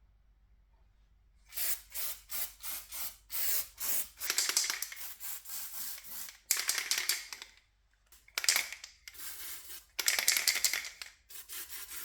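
Aerosol can of underbody protection spraying in bursts: a run of short hissing puffs, then longer sprays with brief pauses between them.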